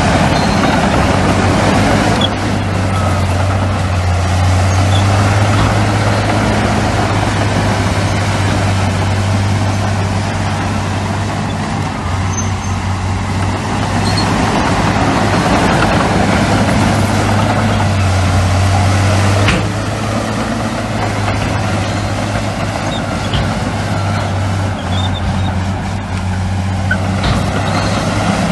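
Heavy diesel construction machinery, bulldozer and dump-truck engines, running steadily with a deep drone. A single sharp knock comes about two-thirds of the way through.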